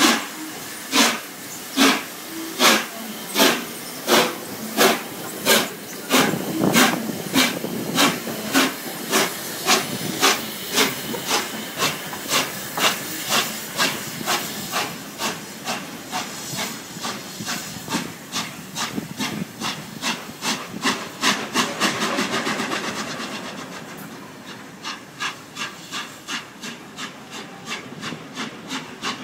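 Peppercorn A1 steam locomotive Tornado pulling away, its exhaust chuffing in loud, even beats with steam hiss, the beats quickening as it gathers speed. About 23 seconds in the sound drops to fainter, continuing beats.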